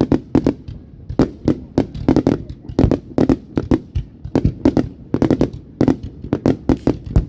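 Aerial fireworks exploding in rapid, irregular succession, several loud bangs a second with their echoes.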